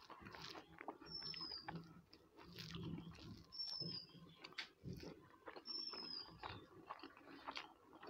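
Close-miked eating with the fingers: chewing and smacking mouth sounds and small clicks as rice and curry are mixed and eaten from the plate. A short, high, falling chirp recurs every two to three seconds.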